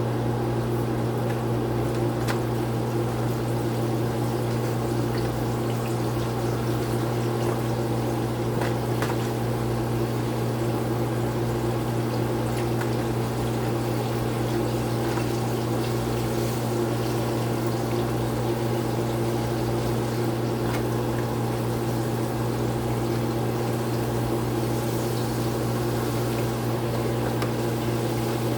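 Chicken pieces deep-frying in hot oil, a steady sizzle with faint crackles, over a steady low hum.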